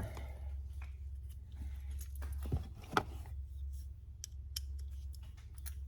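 Scattered small clicks and light knocks from handling car door-panel trim parts, the two loudest knocks about two and a half and three seconds in, over a steady low hum.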